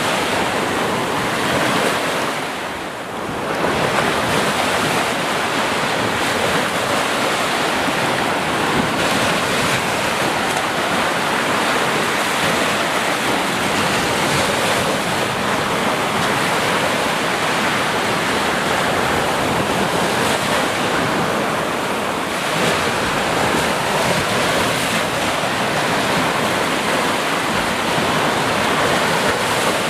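Sea surf: a steady, dense rush of breaking waves, easing briefly about three seconds in.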